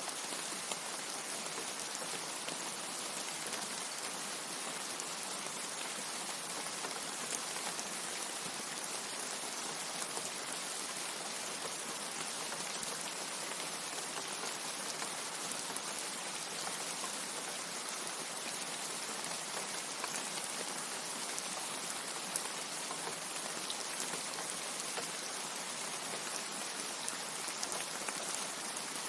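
Steady rain falling: an even hiss of many drops, with scattered sharper drop ticks and no thunder.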